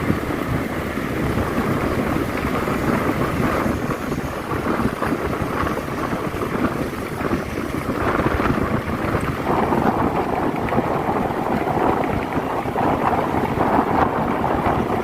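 Steady, loud rushing of wind buffeting the microphone, rough and gusty, with no clear tone or rhythm.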